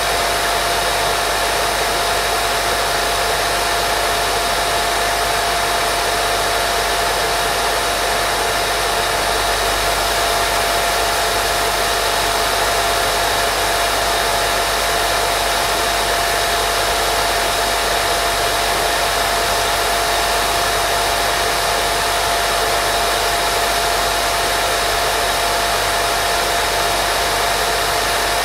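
Steady white-noise sleep sound for babies: an even, unchanging hiss with a constant faint tone running through it.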